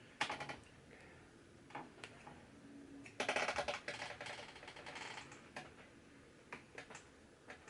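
Light clicks and crackling of plastic and thin panel parts being handled as a TV's LCD panel is lifted free of its frame, with a denser run of clicking in the middle.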